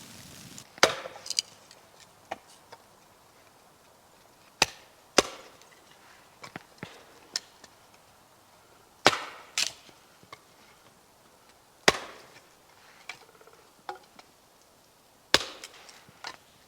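Wood being chopped with an axe: a series of sharp, single chops a few seconds apart, with smaller knocks and splintering between them.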